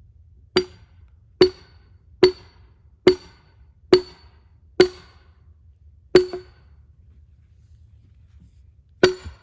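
Splitting maul hammering a metal wedge into the end of a cedar log to split it: eight ringing metal-on-metal blows, six in a steady rhythm a little under a second apart, then one more after a pause and a last one near the end.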